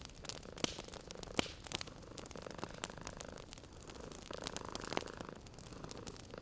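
Wood fire crackling, with scattered sharp pops and snaps, over a cat purring steadily. The purr swells a little past the middle.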